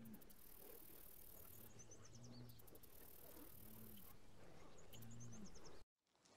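Near silence: faint outdoor pasture ambience with a few faint high chirps and soft low hums, cutting to total silence near the end.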